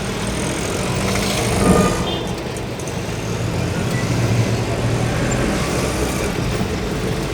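Steady engine hum and road noise heard from inside a moving vehicle travelling over a rough, potholed road.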